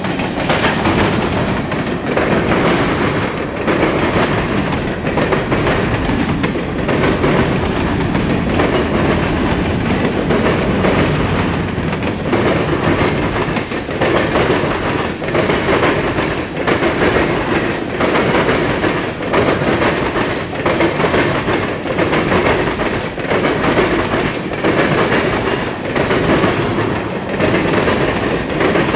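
Freight train of covered hoppers and tank cars rolling past, a steady loud rumble with the steel wheels clicking over the rails in a continuous run of clacks.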